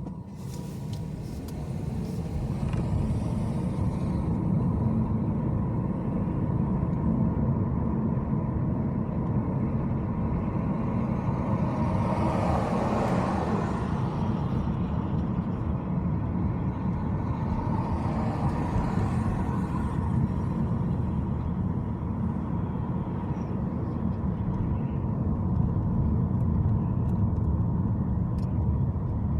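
Car driving on city streets: a steady low rumble of engine and tyre noise, with two broader swells of noise about twelve and eighteen seconds in.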